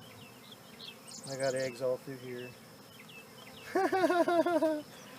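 Honey bees buzzing around an open hive during an inspection, with two brief, low murmurs of voices.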